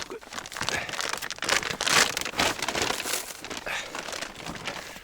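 A person moving on foot through dry vegetation: irregular rustling and crinkling mixed with footsteps.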